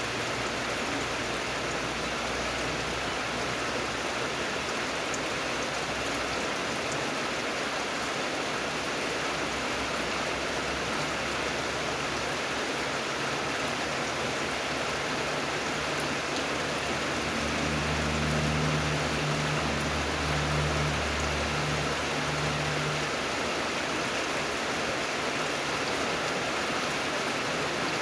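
Steady rain falling, an even hiss of many drops. A low rumble swells for a few seconds a little past the middle.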